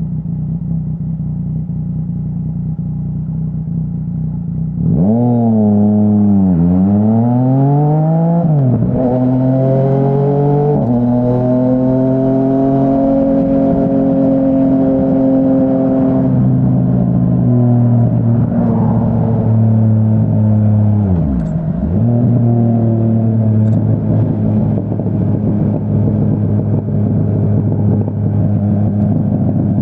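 2017 Yamaha Tracer 900's 847 cc inline-three running through a full aftermarket Dominator HP3 exhaust. It runs low and steady at first; about five seconds in it gets louder and accelerates, the pitch dropping and climbing through gear changes, then holds a steady note at speed, with a brief dip in revs about two-thirds of the way through before it picks up again.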